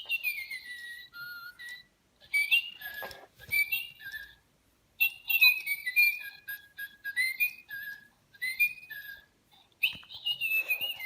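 Little Live Pets electronic toy bird singing a whistled tune: phrases of short, gliding high notes with brief pauses between them, the first phrase sliding downward.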